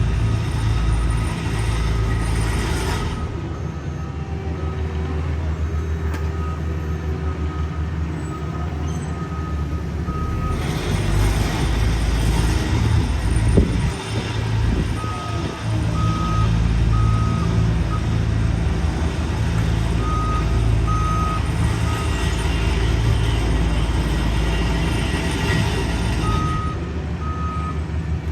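Engines of heavy asphalt-paving equipment running with a low, steady rumble, while a backup alarm beeps repeatedly as a machine reverses. A single brief clank about halfway through.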